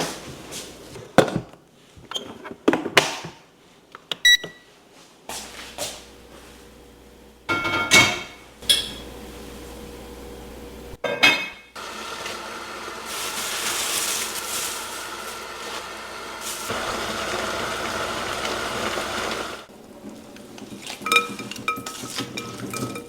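Kitchen prep sounds: dishes and utensils clinking and knocking, then a steady rushing hiss for about eight seconds that stops suddenly, followed by more light clinks.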